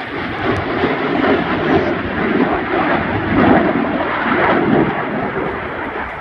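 Airplane flying past, a loud rushing engine noise that comes in suddenly, swells a little past the middle and eases off toward the end.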